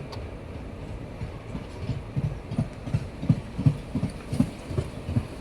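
Passenger train coaches rolling past, the wheels knocking over the rail joints in a steady clickety-clack of about three knocks a second over a low rumble. The knocks become distinct about a second and a half in.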